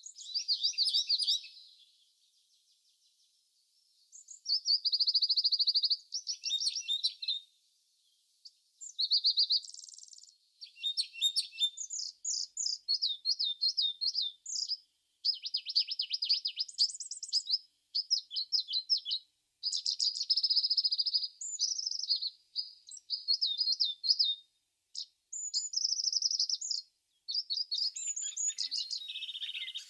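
Small songbirds singing: rapid high-pitched trills and chirps in phrases of a second or two, broken by short pauses.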